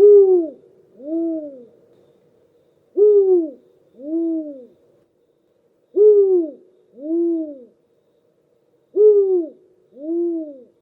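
Spotted eagle owl hooting: four double hoots, each a louder first note followed about a second later by a lower, softer second note, with the pairs repeating about every three seconds.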